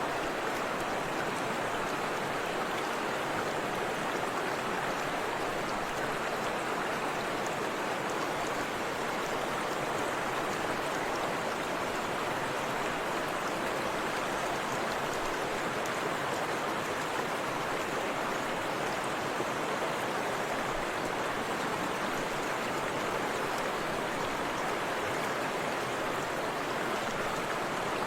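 A forest river and small waterfall rushing in a steady, unbroken wash of water noise.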